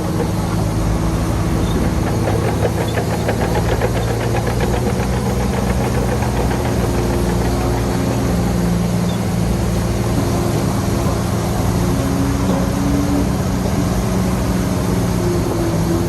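Heavy diesel engine of earthmoving machinery running steadily, with a fast rattling clatter during the first few seconds.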